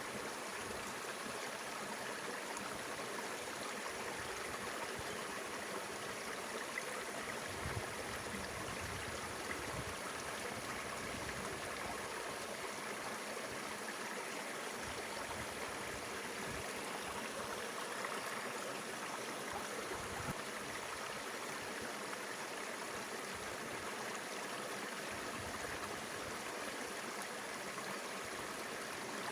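Mountain river water flowing steadily over rocks, an even rushing with a little gurgling.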